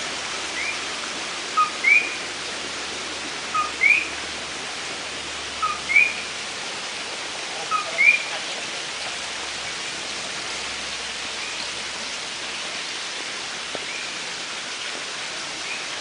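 Common coquí frog calling its two-note "co-quí": a short lower note followed by a higher rising one, repeated about every two seconds for the first half. After that only fainter calls are heard, over the steady noise of the forest.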